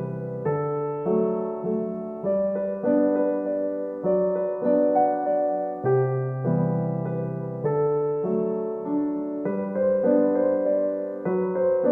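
Soft background piano music: gentle notes and chords struck about once a second, each fading away before the next.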